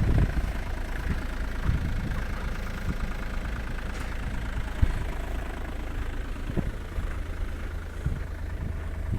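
Skoda Roomster's 1.4 TDI three-cylinder diesel idling steadily soon after a cold start at about −18 °C, with one sharp click about five seconds in.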